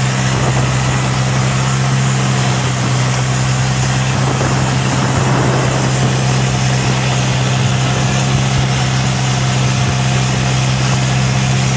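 Fishing boat's engine running steadily with a deep, even drone, under a steady rushing noise of wind and sea.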